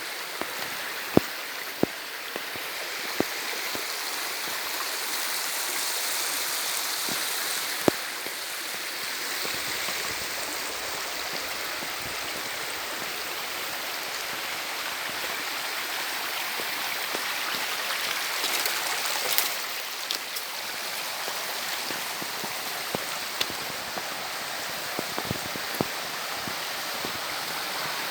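Fast-flowing river water rushing steadily, with scattered sharp clicks and knocks, the loudest about a second in and again near eight seconds.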